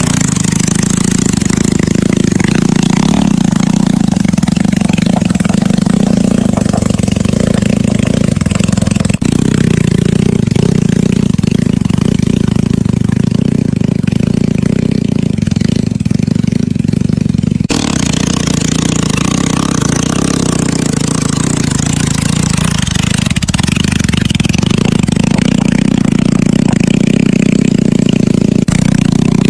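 Motorcycle engine running steadily at a loud, even level. The sound changes abruptly twice, about a third and two-thirds of the way through.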